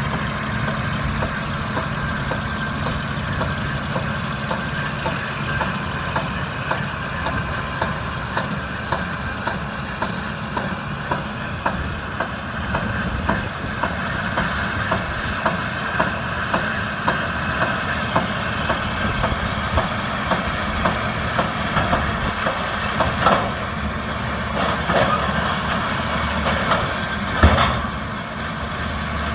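Kubota M125X diesel tractor engine running steadily while powering a baler, with the baler's mechanism clicking at a regular pace and two louder knocks near the end.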